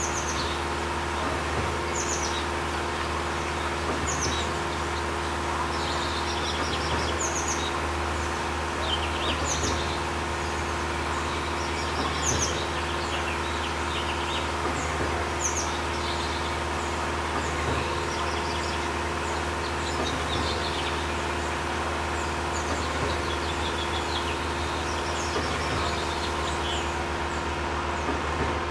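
Small birds chirping, many short high chirps repeating throughout, over a steady low mechanical hum.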